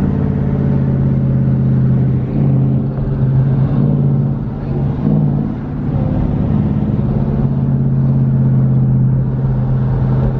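Car engine and exhaust droning steadily while driving, easing off slightly a couple of times and picking back up.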